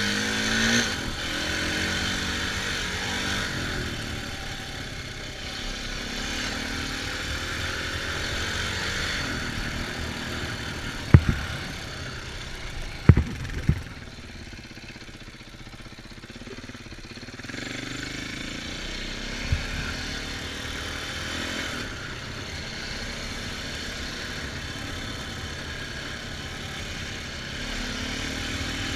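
Dirt bike engine running while riding, its pitch rising and falling as the throttle is worked, over wind noise. A few sharp knocks stand out around the middle.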